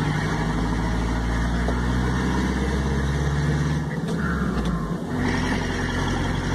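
Engine and road noise of a vehicle being driven, heard from inside the cabin. The steady engine note briefly drops away about four seconds in and picks up again about a second later.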